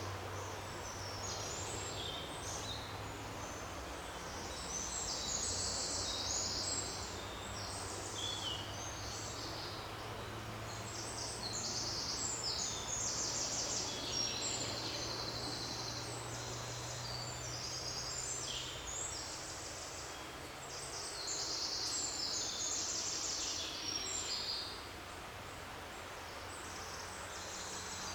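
Several songbirds singing in a forest, with short high chirps and rapid trills overlapping throughout. A low steady hum underneath fades out about three quarters of the way through.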